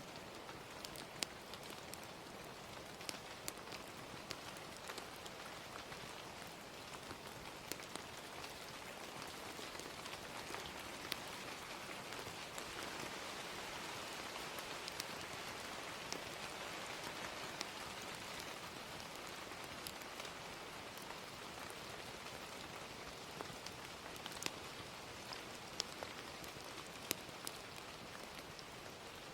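Steady gentle rain, with the scattered sharp pops of a crackling fire. The rain swells a little in the middle.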